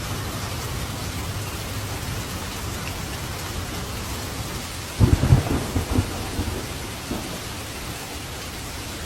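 Steady heavy rain, with a sudden clap of thunder about five seconds in that rumbles and trails off over a couple of seconds.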